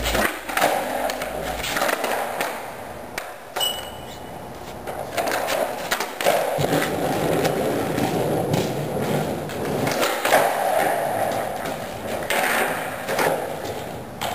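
Skateboard wheels rolling over the ground with repeated sharp clacks and knocks of the board landing and hitting the ground as tricks are tried.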